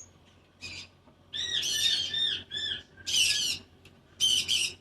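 Pet cockatoo calling in a run of short, squawky, arching notes, coming in several bursts with brief pauses between them.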